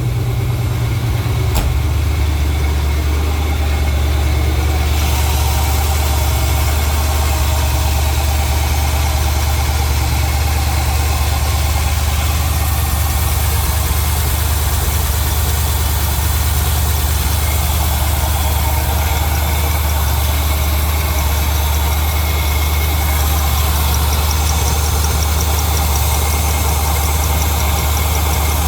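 LS V8 engine in a Porsche 951 idling steadily on a cold start, held at a raised warm-up idle and running a little rich until it reaches operating temperature.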